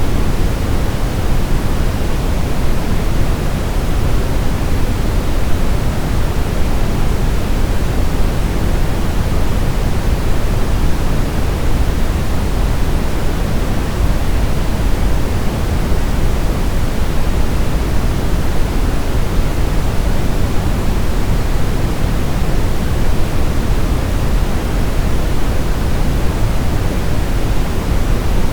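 Steady, unchanging brown noise: a deep, even rumble-like hiss, strongest in the bass and rolling off toward the treble, with no events or changes.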